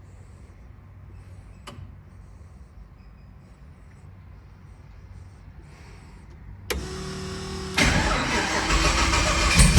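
Low steady hum, then near the end a starter motor whines briefly and the twin-turbo S10's engine catches and runs, much louder.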